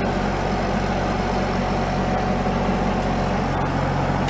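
Bobcat 3650 utility vehicle's engine idling steadily, around 1800 RPM, while it warms up.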